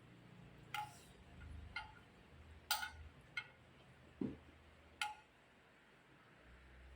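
Scattered light clinks of spoons and tableware against plates during a meal, about six separate ones in the first five seconds, over a faint low rumble.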